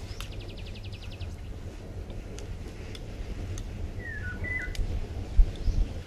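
Birds calling: a rapid high trill lasting about a second at the start, then a short whistled call that falls and steps back up about four seconds in, over a faint low background rumble.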